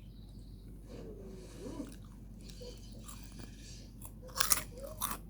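Close-mic mukbang eating: chewing, with a short cluster of loud, sharp crunching bites about four and a half seconds in.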